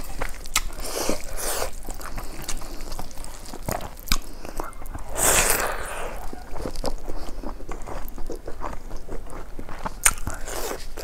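Close-miked mukbang eating: a person chewing a mouthful of rice and greens eaten by hand, with wet mouth clicks and crunchy bites. About five seconds in, a longer, louder wet burst comes as a new handful goes into the mouth.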